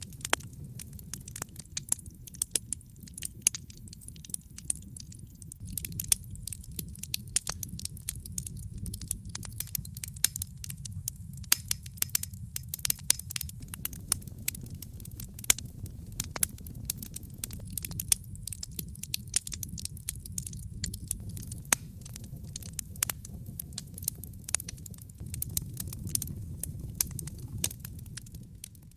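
Campfire of burning wood crackling: a dense, irregular run of sharp pops and snaps over a steady low rumble of the flames.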